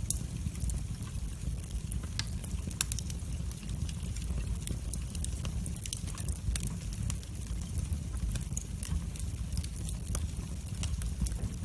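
Wood fire in a fireplace crackling: frequent sharp pops and snaps, irregularly spaced, over a steady low rumble of the flames.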